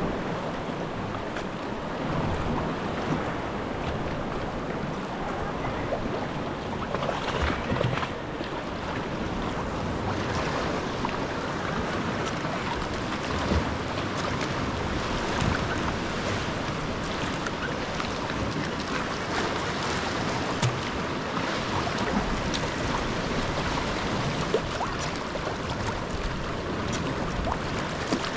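Sea water splashing and lapping around a paddled sea kayak, with short splashes now and then and steady wind noise on the microphone.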